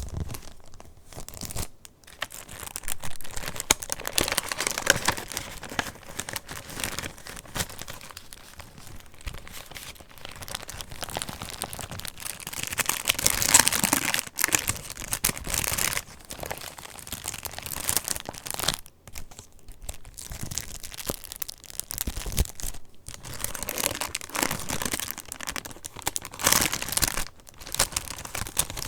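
Pages of a handmade junk journal being handled and turned, the paper rustling and crinkling, with louder swells of rustling three or four times.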